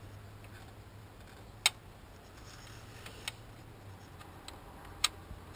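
A few sharp clicks and taps of small hard objects being handled, the loudest about a second and a half in and another about five seconds in, over a low steady hum.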